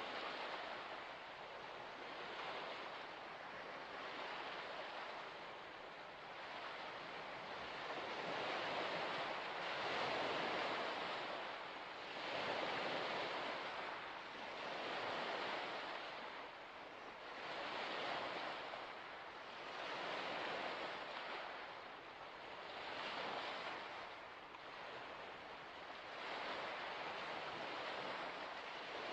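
Small waves washing onto a shore, the splash swelling and ebbing about every two to three seconds.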